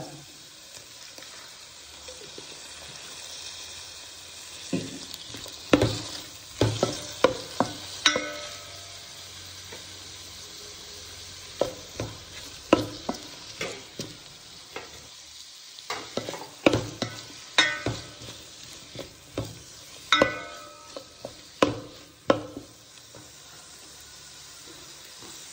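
Chicken, egg and vegetables stir-frying in a pan with soy sauce just added, sizzling steadily. A spatula knocks and scrapes against the pan in several short bouts, some knocks giving a brief ringing clink.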